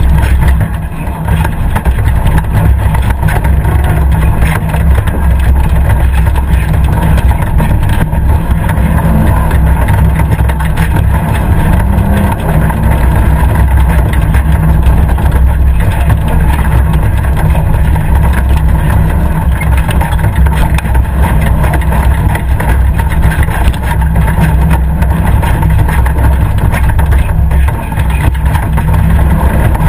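Competition safari 4x4's engine running under load as it is driven over a rough dirt course, heard from on board: a loud, steady low rumble with no let-up.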